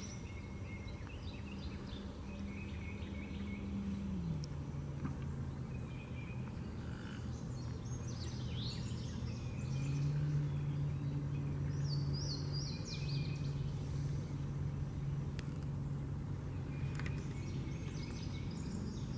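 Woodland ambience with scattered short bird chirps and trills, over the low steady drone of a distant engine that drops in pitch about four seconds in and grows louder about ten seconds in.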